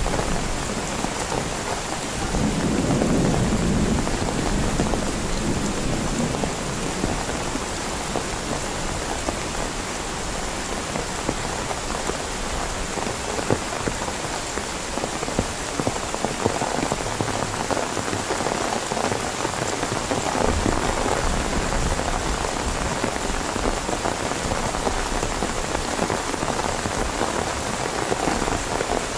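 Heavy rain falling steadily, with a scatter of sharp drop ticks. A low rumble of thunder swells about three seconds in and fades away.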